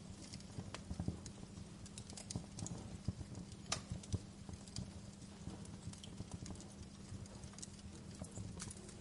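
Fire crackling, with irregular sharp pops and snaps over a steady low rumble of flames; one sharper pop a little under four seconds in.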